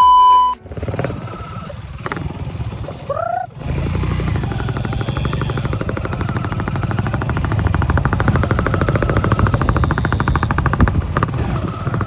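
A short, loud beep at the very start, then a Hero Glamour's 125 cc single-cylinder engine running through a modified exhaust, giving a rapid pulsing exhaust note that grows denser and a little louder as the engine is revved harder in the second half.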